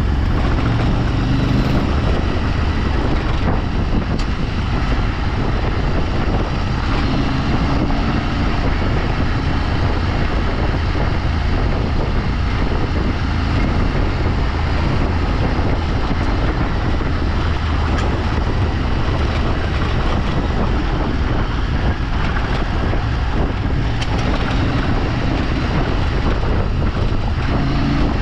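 A vehicle driving along, its engine running steadily under loud, even road and wind noise.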